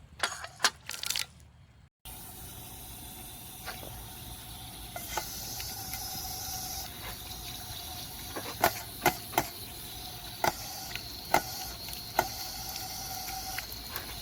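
A few sharp knocks, then a steady hissing spray of water from a paw-activated dog water fountain, with a scatter of sharp clicks and taps over it.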